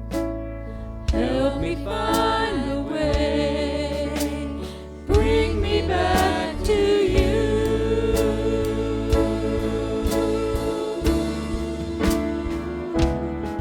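Worship music: voices singing a hymn-like song over a band with a steady bass line and drum strokes, the singing coming in about a second in.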